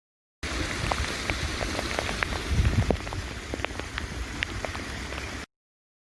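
Heavy rain falling, with many sharp ticks of drops striking a hard surface over a steady hiss and a low rumble. It starts and stops abruptly.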